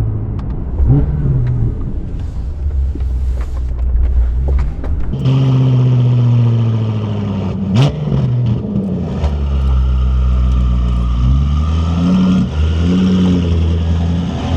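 BMW F10 M5 Competition's twin-turbo 4.4-litre V8 through an Akrapovic exhaust while driving, the engine note rising and falling with the revs. There is a quick sharp rev about eight seconds in, then a steady low drone with a couple of short rises near the end.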